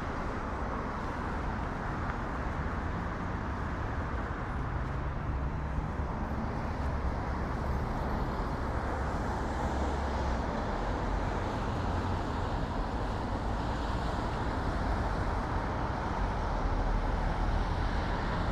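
Steady urban road traffic: a continuous rush of passing vehicles with a low engine rumble, swelling a little near the end.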